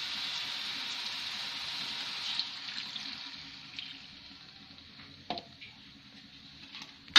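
Taro stems frying in hot oil in a wok, sizzling as water is poured in from a plastic jug; the sizzle fades away over the next few seconds. A single light knock near the end.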